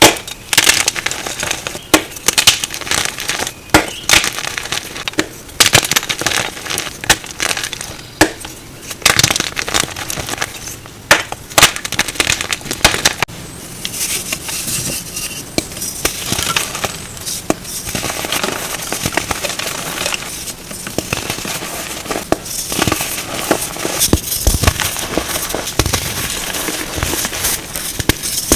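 Reformed gym chalk being crushed: sharp crunches and snaps, giving way about halfway through to a denser crumbling crackle.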